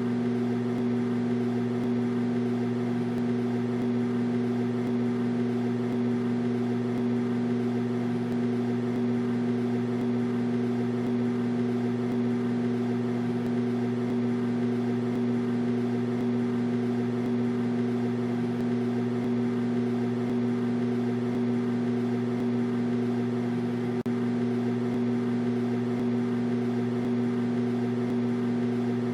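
Microwave oven running: a steady, unchanging mains hum with a faint whir of the fan and turntable.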